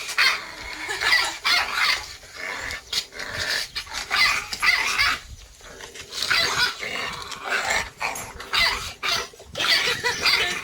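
Jindo dogs growling and barking in short, repeated bursts.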